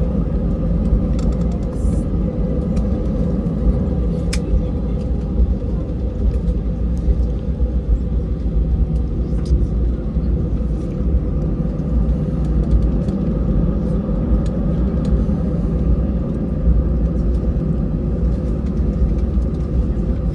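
Cabin noise inside an Airbus A320 airliner taxiing: a steady low rumble from the running jet engines and airframe, with a constant hum and a few faint clicks.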